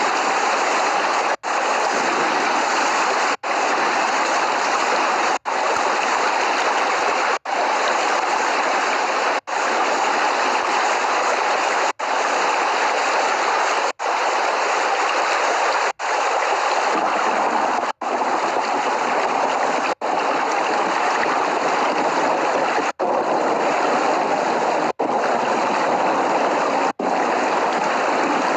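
Steady heavy rain, an even hiss with no thunder, broken by a split-second dropout about every two seconds.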